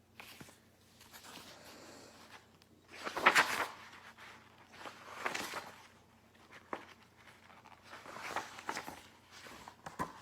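Soft rustling and handling noises: a few short scuffs, the loudest about three seconds in, with quieter ones later.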